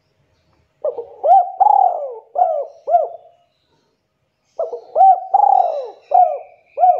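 Spotted dove cooing: two phrases of about five arching coo notes each, the second phrase starting about four seconds after the first.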